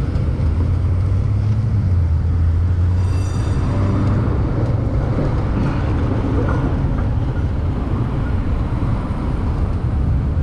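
Steady rushing wind and road noise, heaviest in the low rumble, from riding an electric moped in city traffic. A faint high whine shows briefly about three seconds in.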